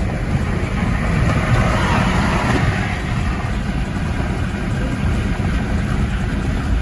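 Car engines and exhausts running loudly as a steady low rumble, with a rush of noise that swells and fades about two seconds in.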